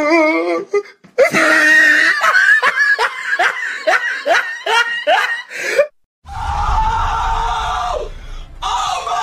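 Meme sound-effect clips of a human voice: a wavering wail, then a long run of rapid, repeated rising yelps like frantic laughter or screaming, about three a second, then after a short gap a held shout over a deep rumble.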